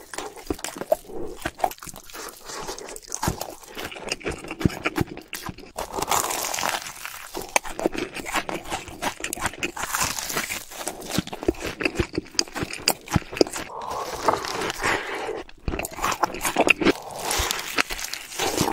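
Close-miked biting, crunching and chewing of Hot Cheetos-crusted fried food, a dense run of crisp crackles and crunches.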